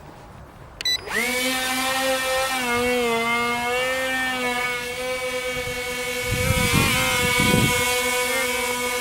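Brushed electric motors and propellers of a small XK X420 VTOL RC plane spinning up after a short click about a second in, then running with a steady high whine whose pitch wavers slightly as the throttle is worked. Low buffeting thuds come in about two-thirds of the way through.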